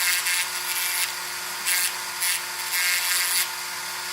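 Small electric power tool running steadily, with bursts of high-pitched grinding about once a second as it works at a die-cast toy's rusted, seized wheel axles.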